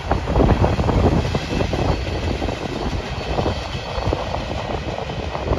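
Norfolk Southern open-top hopper cars of a freight train rolling past, steel wheels clattering and knocking on the rails, with the cars rattling.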